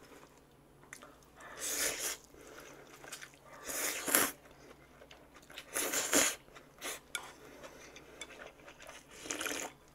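Crisp deep-fried Vietnamese spring roll (chả giò) crunching as it is bitten and chewed, close to the microphone, in about five separate crunchy bursts.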